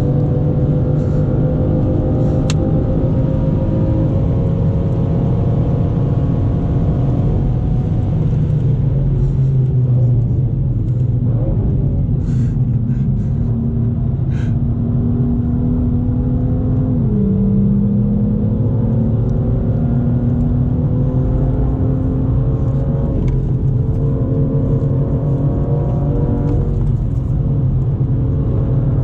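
BMW M2's turbocharged straight-six engine heard from inside the cabin at track speed, its pitch rising under acceleration and falling on braking and downshifts, over steady tyre and road noise. A few short clicks come around the middle.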